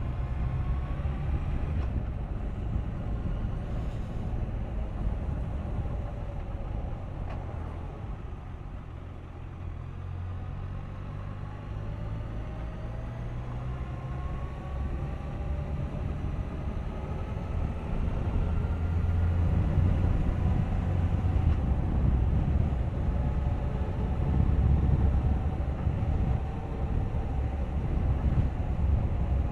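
Suzuki GSX1250FA's inline-four engine running on the road, its note rising several times as the bike accelerates, under a heavy low rumble that grows louder in the second half.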